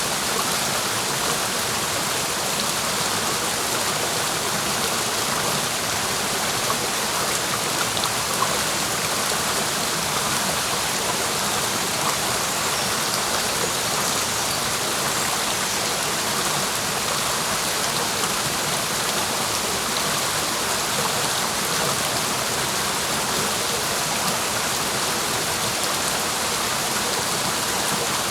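Clear mountain stream, its water rushing steadily over rocks.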